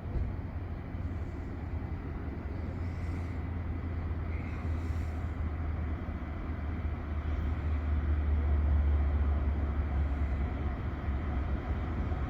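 Low rumble of a long freight train approaching, growing louder and peaking about eight seconds in.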